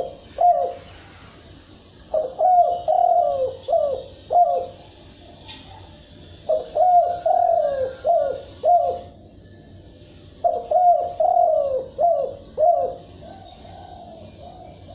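Spotted dove cooing: three phrases of about five short, falling coos each, with pauses of a second or two between them. It is the wild field dove's song, used to provoke and lure wild males.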